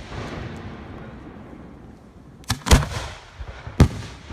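Aerial fireworks going off with sharp bangs: two close together about two and a half seconds in, the second the loudest, and another about a second later, over a steady rumble and crackle from the show.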